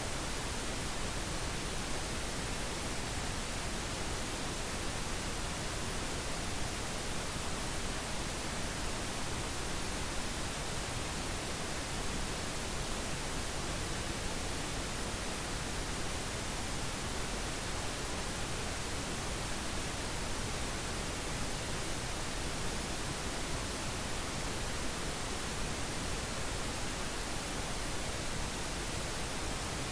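Synthetic pink noise: a steady, even hiss spread across the whole range, unchanging throughout.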